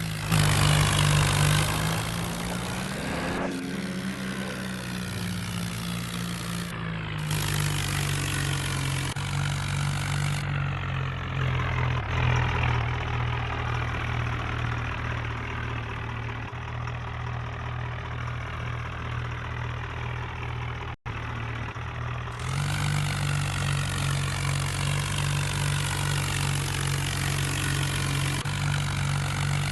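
Tractor diesel engine running steadily, with the sound changing abruptly several times and a brief gap about 21 seconds in.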